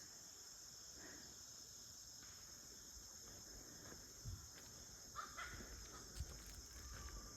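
Faint, steady high-pitched chorus of insects such as crickets, with a few soft knocks and a brief chirp in the second half.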